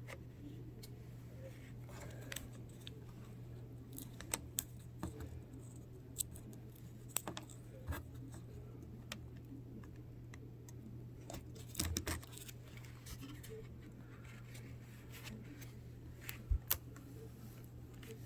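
Scattered small clicks and taps from hands handling laptop screen parts and the display's connector cable, over a steady low hum. The loudest taps come around a third of the way in, about two-thirds through, and a quick pair near the end.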